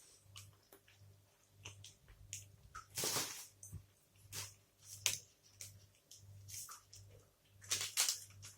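Close-up chewing of a Gainomax toffee protein bar: wet mouth smacks and small clicks, with louder bursts of chewing about three, five and eight seconds in.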